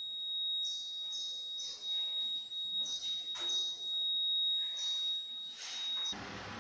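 A steady high-pitched electronic tone with a few faint clicks, cutting off abruptly about six seconds in.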